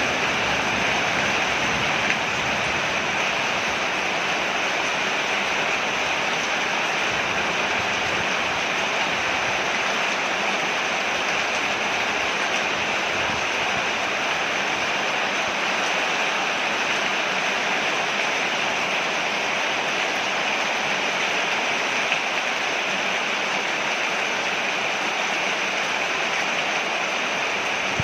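Steady rain falling on a porch, a constant even hiss of water.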